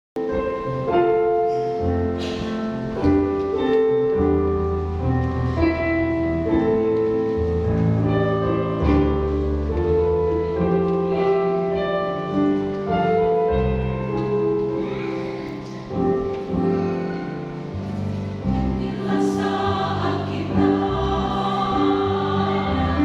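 Church choir singing a hymn in held chords, the parts moving together from chord to chord.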